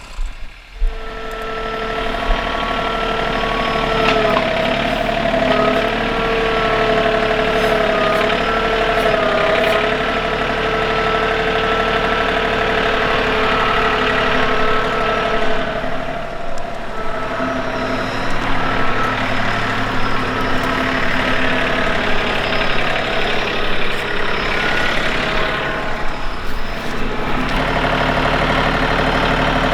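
An engine running steadily, with a few tones that waver in pitch for several seconds early on.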